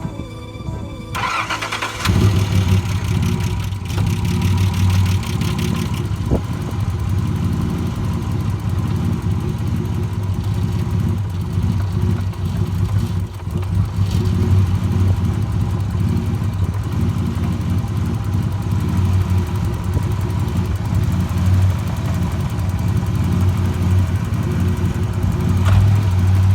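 A 1986 Nissan 300ZX Turbo's 3.0-litre turbocharged V6 (VG30ET) being started: a brief crank about a second in, catching about two seconds in, then running steadily.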